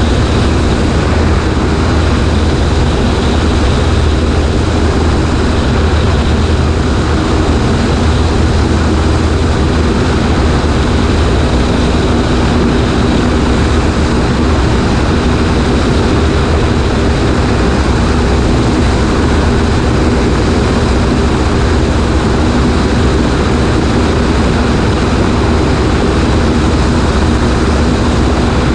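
Cessna 140A light plane in flight: its piston engine and propeller run at a steady, unchanging drone.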